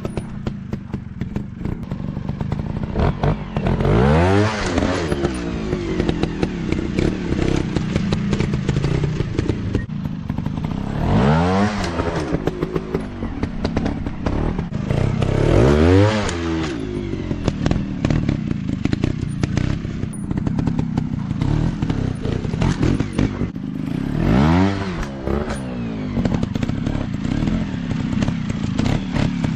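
Dirt bike engines running, revved up and back down four times, with clattering and knocks mixed in.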